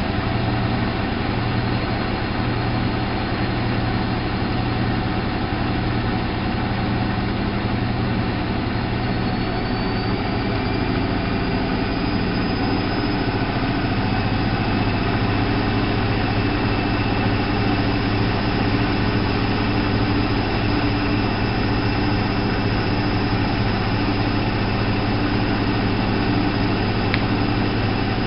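ALASKA WA8200 E washing machine running with a steady hum. About nine seconds in, its motor whine rises in pitch and then holds. A single click comes near the end.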